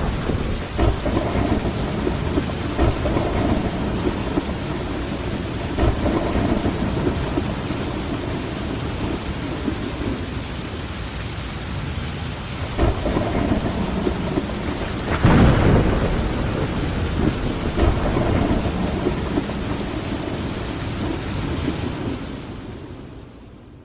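Steady rain with thunder rumbling low at intervals, the loudest roll about two-thirds of the way through. The whole storm fades out near the end.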